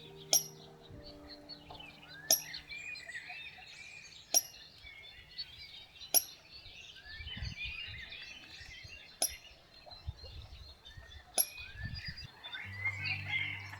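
Birds singing and chirping over quiet background music, with a sharp click about every two seconds and sustained low notes near the start and again near the end.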